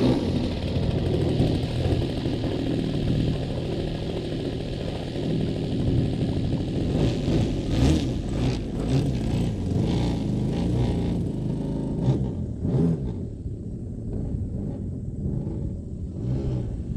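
Desert Aircraft DA-50 single-cylinder two-stroke gas engine of a large RC aerobatic plane, running and changing pitch with the throttle. From about twelve seconds in it settles to a lower, duller run.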